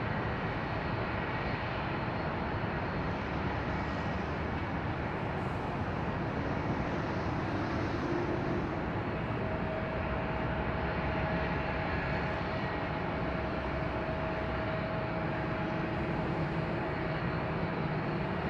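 Jet airliner engine noise at the airport, a steady rushing sound with a faint steady whine that comes in about halfway through.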